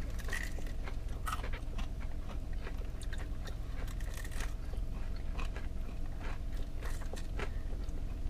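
Chewing and biting into crispy-coated fried chicken wings, with scattered small crunches and crackles over a low steady hum.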